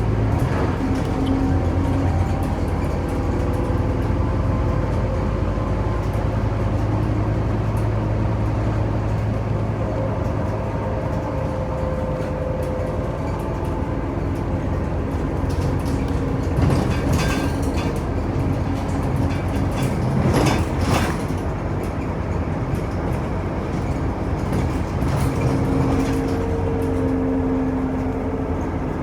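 Scania OmniCity city bus heard from inside the cabin while driving: a steady low engine and drivetrain hum whose tones slowly rise and fall as it speeds up and slows. A few rattles and knocks come about two-thirds of the way through.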